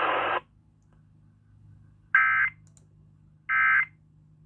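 Emergency Alert System end-of-message data bursts on a broadcast radio station: two short, identical warbling digital chirps about 1.4 seconds apart, closing the severe thunderstorm warning. The preceding broadcast audio cuts off just after the start, leaving a low hum between the bursts.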